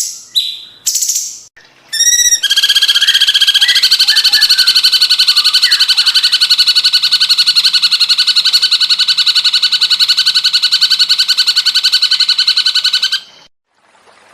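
Cucak cungkok song: a few short calls, then a long, rapid pulsing trill held on one pitch for about ten seconds that stops abruptly near the end.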